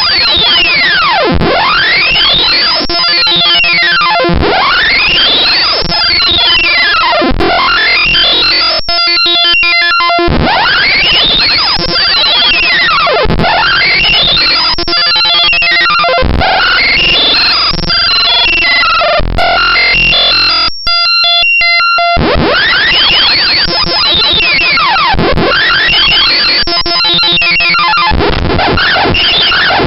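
Loud, harsh bytebeat audio generated by GDI malware: gritty, distorted electronic tones with repeated pitch sweeps arcing up and down. Twice the sweeps give way to a second or so of buzzy, evenly pulsing tones.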